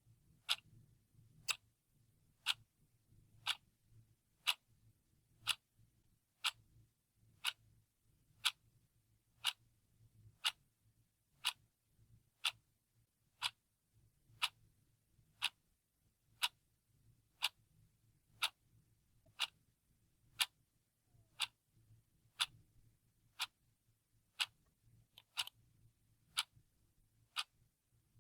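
Analog clock ticking steadily, about one tick a second.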